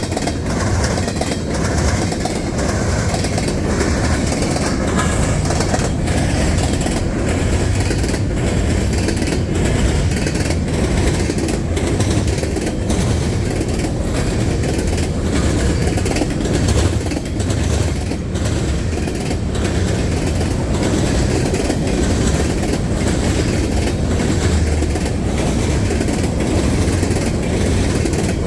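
Norfolk Southern train rolling past, its cars making a steady low rumble with an even clickety-clack of wheels over the rail joints.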